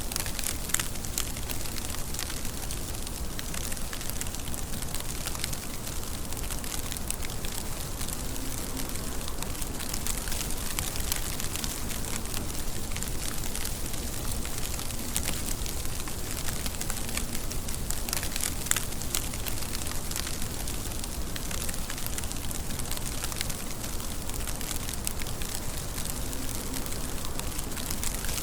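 Steady rain with many small drops pattering and crackling on a surface.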